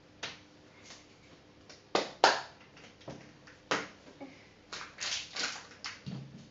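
Plastic toy packaging being handled and crinkled while being pried open, in a run of short rustles, the loudest about two seconds in and a cluster near the end.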